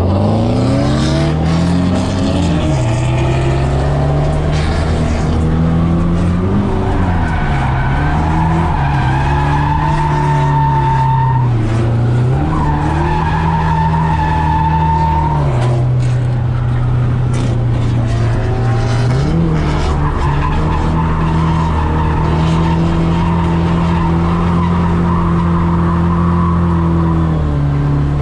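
Nissan 240SX S14 drift car running hard, its engine note climbing, holding high and dropping back several times, with tyres squealing in a high whine twice near the middle as the car slides.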